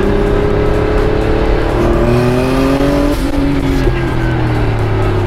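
RWB Porsche 911's flat-six engine pulling hard under acceleration, heard from the open cockpit over wind rush. The engine note climbs, drops at a gear change about two seconds in and again about three seconds in, then carries on.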